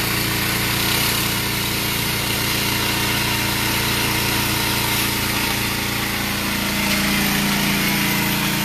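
Small gas engine of a pressure washer running steadily at a constant speed, with an even hiss over it.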